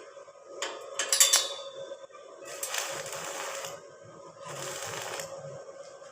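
Metal parts clinking, with a brief ringing note about a second in, then two longer rasping noises of about a second each, over a steady hum.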